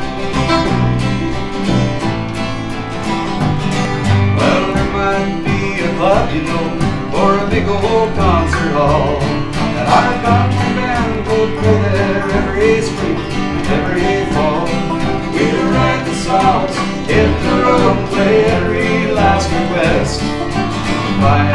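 Instrumental introduction of a country-folk song played by an acoustic string band: plucked guitar over a steady bass line, with a lead melody that slides between notes.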